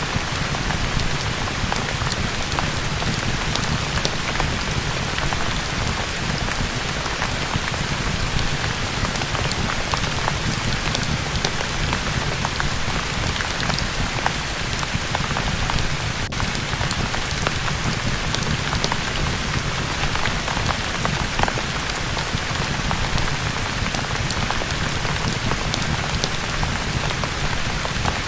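Steady rain falling, an even continuous hiss with a low rumble underneath and many scattered sharp ticks throughout.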